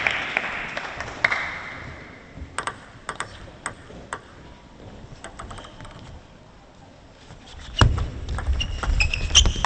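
Crowd applause dying away, then the sharp clicks of a table tennis ball bounced a few times. Near the end a sudden low thump starts a quick run of ball clicks with short high squeaks of shoes on the court floor.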